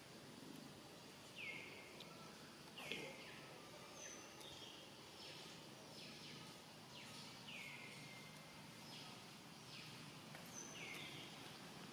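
Faint bird calls repeated about once a second, each a short note that slides down and levels off, over a low steady background noise, with a brief knock about three seconds in.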